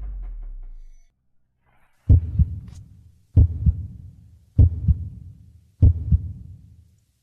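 Heartbeat sound effect: four slow lub-dub double thumps about a second and a quarter apart, after music fades out in the first second.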